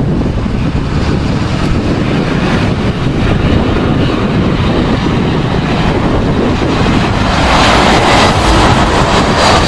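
Wind buffeting the microphone. From about seven seconds in, a jet airliner's engine noise grows louder, with a high whine coming in near the end.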